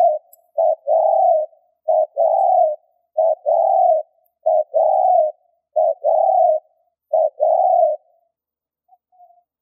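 Spotted dove cooing: a short note followed by a longer one, repeated about seven times at a steady pace before it stops near the end.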